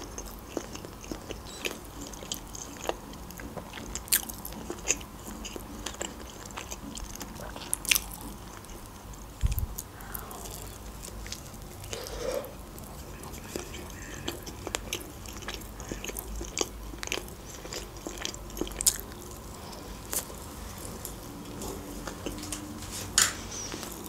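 Close-miked chewing of sushi rolls: biting and mouth sounds, with many small irregular wet smacks and crunchy clicks.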